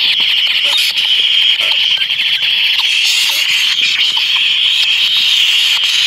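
A dense, steady, high-pitched buzzing animal chorus, with faint short chirps underneath.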